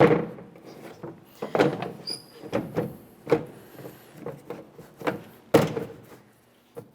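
Plastic tailgate trim panel knocking and scraping against the tailgate as it is hooked on and slid into place: a string of irregular clunks, the loudest at the start and about five and a half seconds in.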